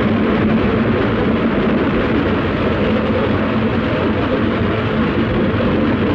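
Steam express train running: a steady, loud rushing rumble of the train on the track, with no clear beat and no whistle.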